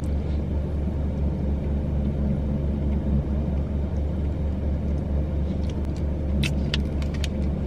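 Car engine idling with a steady low hum, and a few light clicks near the end.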